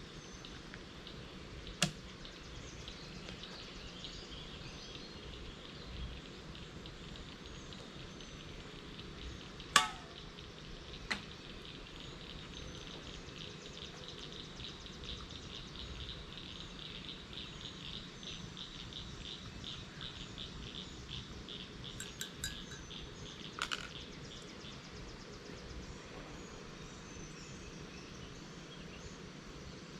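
Small lakeside frogs calling in a run of high clicks, about three a second, through the middle of the stretch, over a steady background of insects. A few sharper, louder clicks stand out, the loudest about ten seconds in.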